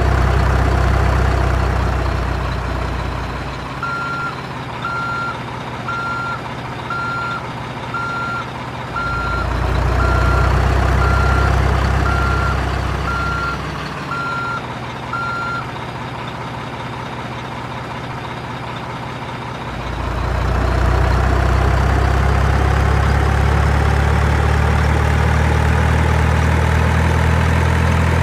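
Dump truck engine running with reversing beeps sounding about once a second for around twelve seconds; the engine swells again near the end, rising in pitch as it revs.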